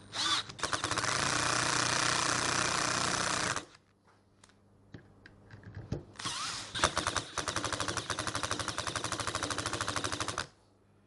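Power screwdriver driving screws in two runs of about three and a half and four seconds, each a rapid, even rattle of strokes, with a short pause between them.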